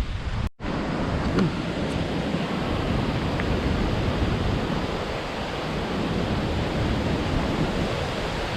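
Steady rushing wind noise on the microphone, with a brief cut to silence about half a second in.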